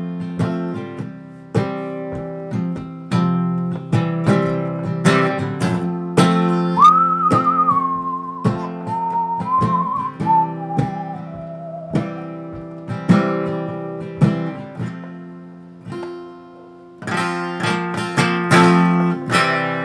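Acoustic guitar strummed as the song's instrumental outro, with a single whistled melody line over it in the middle that drifts downward. The strumming fades briefly, then comes back fuller near the end.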